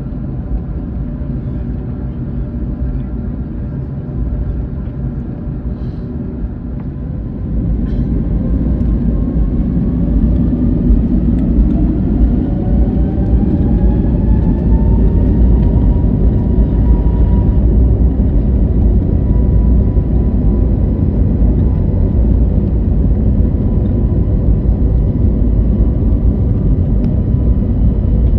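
Airbus A321neo's jet engines heard from inside the cabin, spooling up for the takeoff roll over a heavy rumble. About eight seconds in the rumble grows louder, and a rising whine climbs for several seconds before levelling off into a steady high hum over the rumble.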